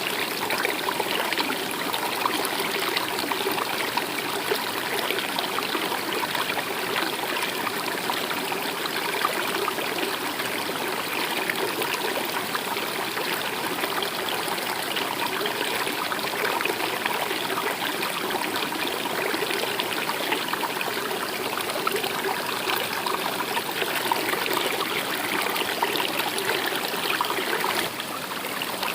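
Small stream running and trickling steadily, with a brief dip in level just before the end.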